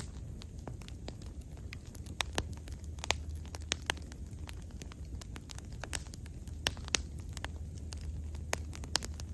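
Wood bonfire burning, with irregular sharp crackles and pops over a steady low rumble of the flames.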